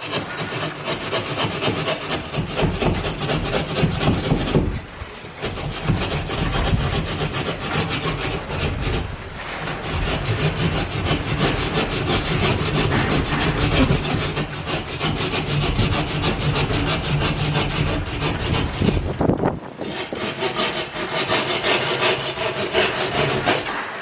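Sawing, a continuous run of fast cutting strokes with brief pauses about five seconds in, about nine seconds in, and near the end.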